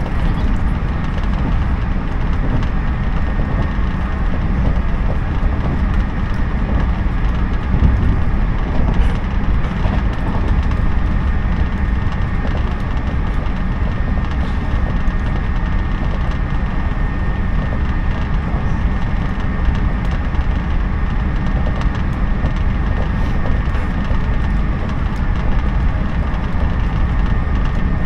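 Interior running noise of a JNR 113 series electric train at speed: a steady rumble of wheels on rail with a thin, constant high whine running through it.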